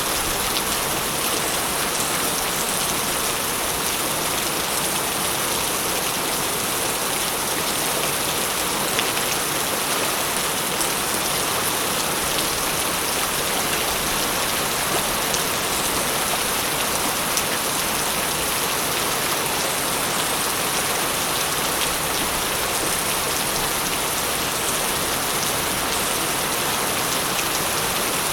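Steady heavy rain falling on surfaces, a dense even hiss with many fine drop patters, and no thunder.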